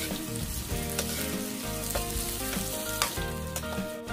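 Diced onion and garlic sizzling and frying in hot annatto oil in a wok, stirred with a metal ladle that clicks against the pan a few times.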